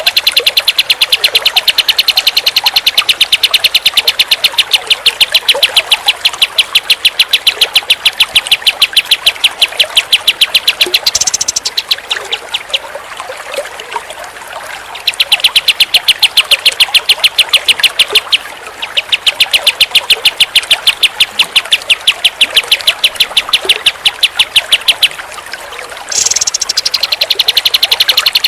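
Kapas tembak songbird chirping: a fast, unbroken run of short, sharp repeated notes. It breaks off for a few seconds about twelve seconds in and briefly again near the end.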